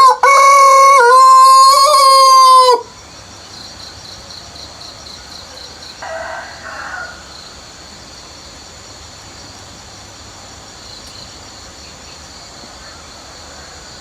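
A rooster crows once, loud and sustained, for nearly three seconds. A much fainter call comes about six seconds in. Crickets chirr steadily underneath.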